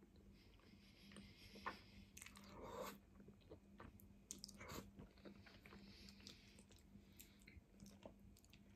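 Faint, wet chewing of rice noodles in spicy tteokbokki sauce, with small mouth clicks and soft slurps as noodle strands are drawn in.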